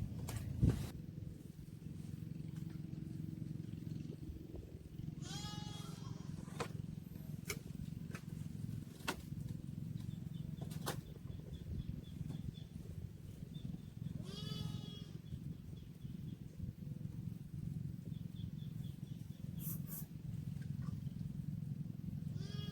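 An animal calling three times, each call under a second long with a wavering pitch, over a steady low rumble, with a few sharp clicks.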